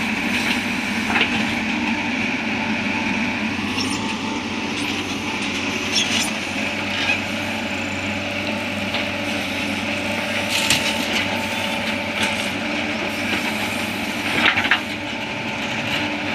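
A JCB backhoe loader and tractor's diesel engines running steadily while mud is dug and loaded, with scattered sharp knocks and clatters every few seconds.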